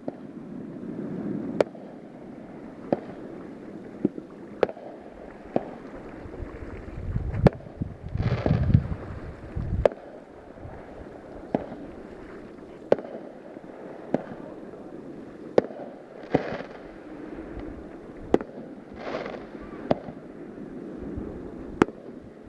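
Fireworks going off: a run of sharp single bangs about every one to two seconds, with longer rumbling, crackling bursts about a third of the way in and twice more near the end.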